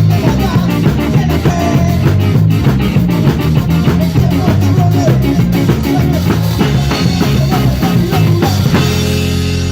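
Live rock band playing at full volume, with drum kit, guitar and bass. Near the end the drumming drops away and the band holds a sustained chord.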